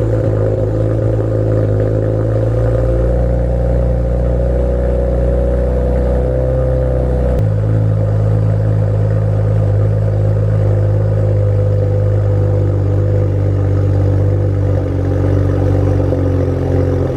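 BMW 335is N54 twin-turbo inline-six running at a steady cold-start idle through a custom 2.5-inch straight-back exhaust with catless downpipes, no mufflers and two resonators. The low drone shifts abruptly about seven seconds in.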